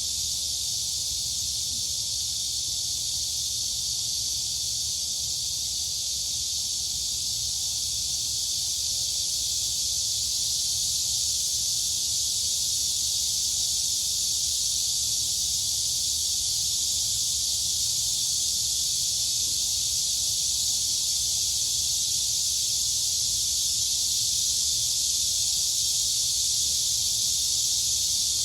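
Dense chorus of crickets and cicadas: a steady, high-pitched shrill hiss without breaks, over a faint low rumble.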